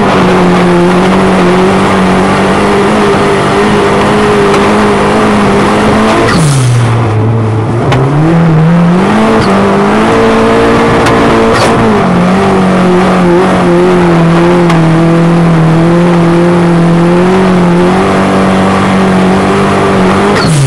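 Engine of a 1400 cc autocross race car held at high revs; about six seconds in the revs drop sharply and climb back up over a couple of seconds, with a brief dip near twelve seconds before holding steady again.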